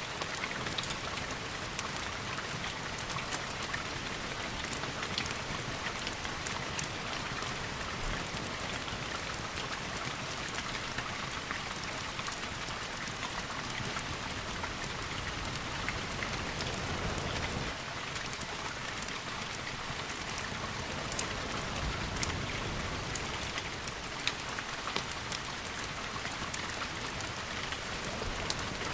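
Steady rain: an even hiss of rainfall with many scattered sharp ticks throughout.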